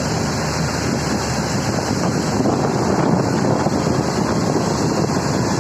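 Steady wind noise buffeting the microphone, with rushing sea water, during a fast ride on a towed banana boat.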